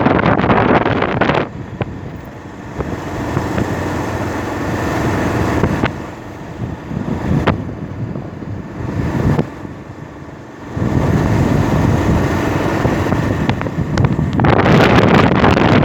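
Wind buffeting the microphone of a moving bike, with rumbling road and vehicle noise underneath. The gusts are loudest at the start and again near the end.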